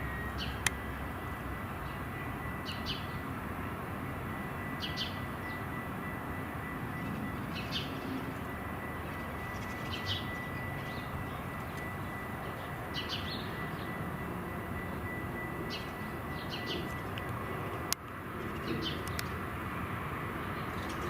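A bird repeating short high chirps about every two to three seconds over a steady outdoor rumble, with a thin steady high tone underneath. A sharp click about 18 seconds in.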